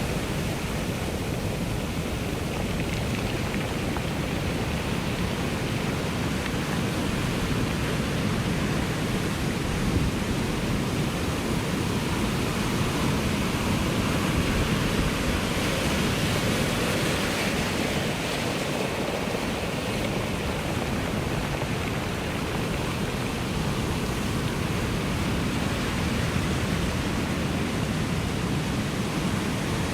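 Ocean surf washing on the shore in a steady, unbroken rush, with one wave breaking a little louder about halfway through.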